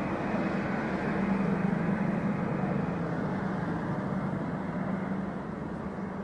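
Trenord electric multiple unit rolling slowly into a station past the platform: steady wheel-and-rail noise with a low hum from the train, easing slightly near the end as it slows.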